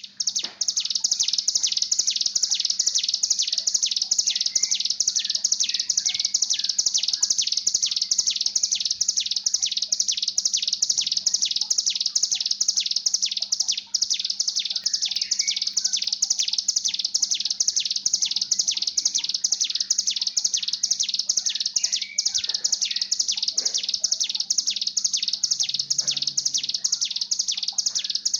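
Hill prinia (ciblek gunung) giving its breeding-condition 'bren' call: a continuous, evenly paced series of high buzzy notes, about two to three a second, over a steady low hum.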